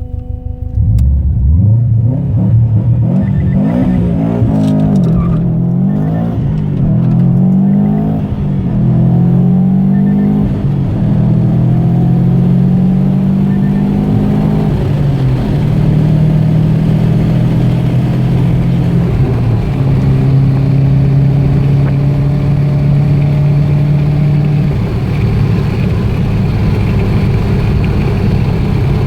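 A stock 2004 Subaru Impreza WRX STI's EJ20 turbocharged flat-four engine launches hard about a second in and accelerates, its pitch climbing and dropping back several times as it goes up through the gears. After that the engine holds a steady speed, with a few step changes in pitch.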